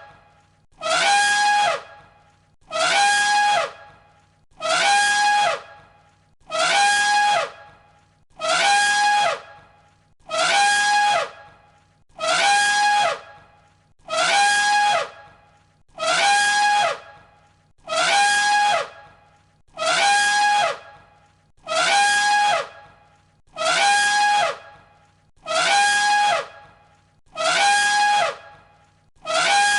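Elephant trumpeting, one short call repeated as a loop about every two seconds. Each call holds one high note, then drops in pitch at the end.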